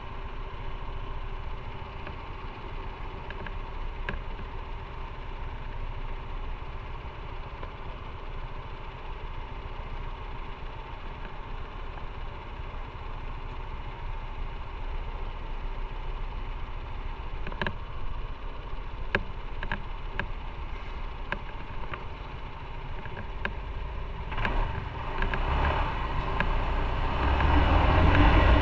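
Motorcycle engine running at low revs with a steady low rumble, growing louder near the end.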